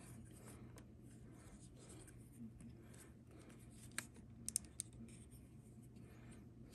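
Faint handling of a plastic Transformers figure, with a few small sharp plastic clicks about four seconds in, one and then three in quick succession, as parts are pushed and tabbed together.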